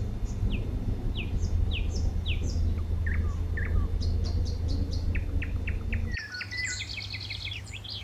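Small birds chirping: short falling chirps repeated every half second or so, with a denser burst of quick high twittering in the last two seconds, over a steady low rumble.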